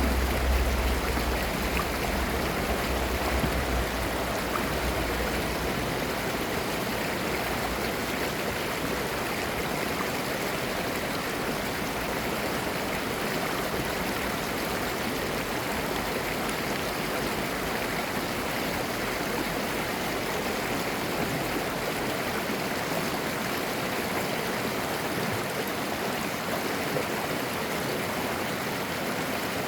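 Clear mountain stream babbling steadily over rocks. A low rumble underneath fades out over the first several seconds.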